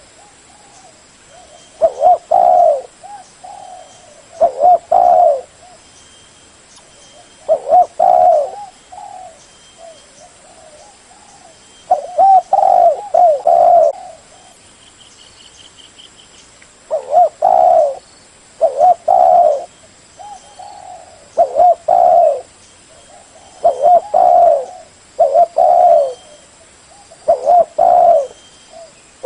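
Spotted dove cooing: loud, repeated phrases of low, wavering coos, a new phrase every two to three seconds.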